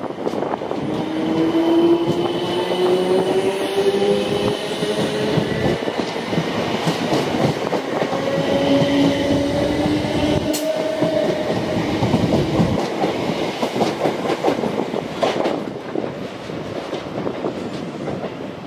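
A train running through the station, its wheels clattering over rail joints under a motor whine that rises slowly in pitch as it picks up speed.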